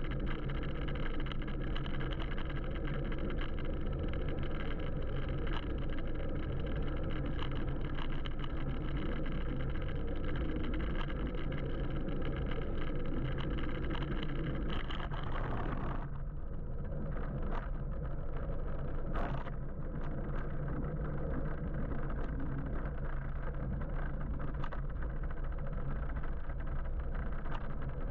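Steady road noise from an electric motorbike riding through city traffic: low rumble and wind rush, with a few short clicks in the second half.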